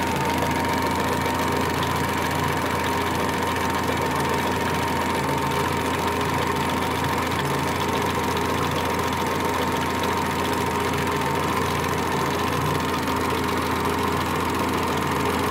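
Fiat Cinquecento engine idling steadily at full operating temperature, with a thin steady whine above the engine hum. The coolant is over 90 °C and the electric radiator fan has not yet switched on.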